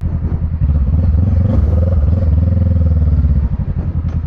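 Motorcycle engine running under way, a steady low note with fast firing pulses, easing off slightly about three and a half seconds in.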